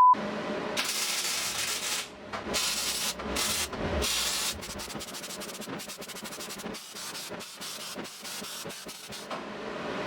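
Irregular rubbing and scraping strokes, like sanding, starting and stopping every second or so.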